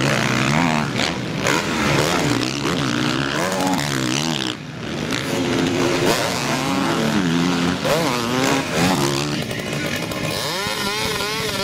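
Motocross bikes racing, several engines revving up and down through the gears with their notes rising and falling over each other. About ten seconds in, one bike's engine comes through louder, its note climbing and wavering as it revs.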